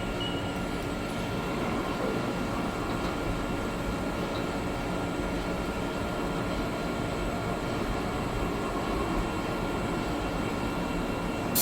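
Steady machine-shop machinery hum with several faint, steady whining tones, with no starts, stops or changes in speed.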